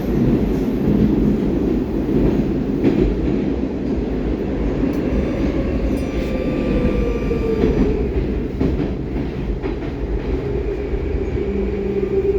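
Running noise of a Baltiets metro train heard from inside the car: a steady rumble of wheels on rail, with a whine that drops gradually in pitch from about five seconds in as the train slows toward a station.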